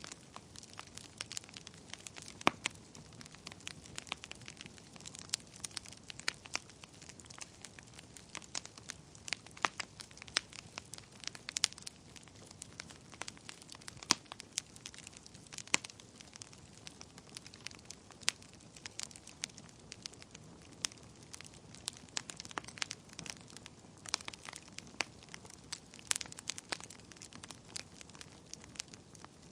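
Wood fire burning in a fireplace: irregular crackles and sharp pops over a soft steady hiss, with a few louder snaps.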